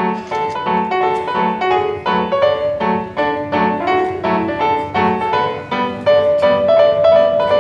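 Lively piano music for a dance, a bright melody over a regular bouncing bass note about every three quarters of a second.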